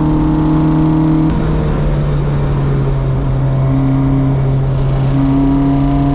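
Car engine running at a nearly steady speed, with a steady note and small shifts in pitch, and a short click a little over a second in.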